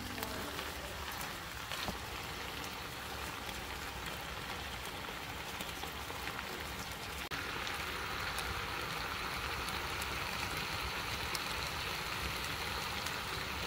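Spicy stir-fried pork in a frying pan sizzling: a steady crackling hiss with small pops. About seven seconds in, the sizzle gets brighter and a little louder.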